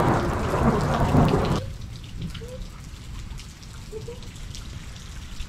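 Thunderstorm rain falling, with individual drops ticking close by over a low rumble. A loud rushing noise fills the first second and a half and then stops abruptly.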